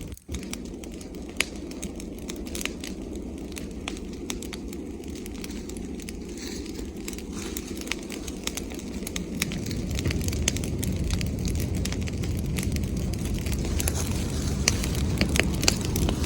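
Bonfire of branches and leaves crackling, with scattered sharp pops over a steady low rumble that grows louder about ten seconds in.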